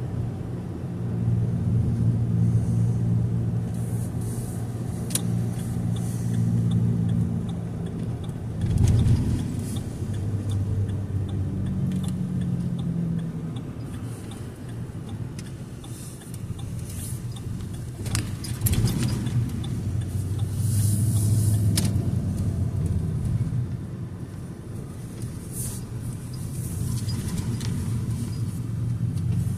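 Car cabin while driving: a low engine and road hum that rises and falls, with scattered rattles and knocks. A faint regular ticking runs for several seconds in the first half.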